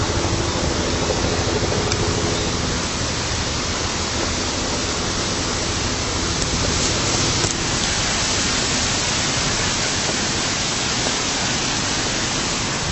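Steady rushing water, as of a waterfall, with a faint low hum in the first few seconds that fades out.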